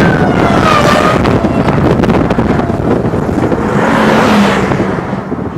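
Strong wind rushing over the microphone, with a siren's wailing tone sliding down in pitch and fading out about a second in.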